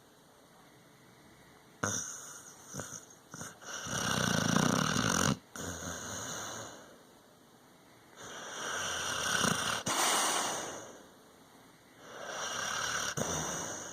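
Dog snoring: starting about two seconds in, several long snoring breaths of one to three seconds each, a few seconds apart.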